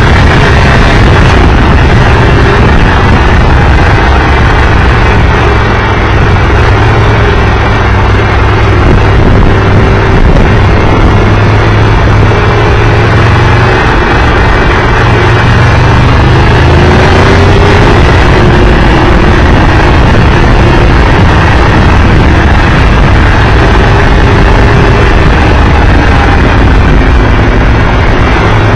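Triumph Tiger Explorer 1200 motorcycle under way: its three-cylinder engine running steadily, largely buried in loud, steady wind noise on the microphone.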